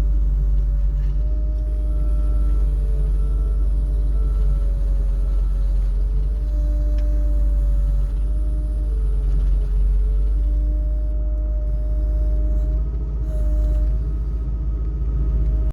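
Skid steer engine running steadily with a heavy low rumble and a wavering pitched whine above it, while the machine works to push itself out of mud.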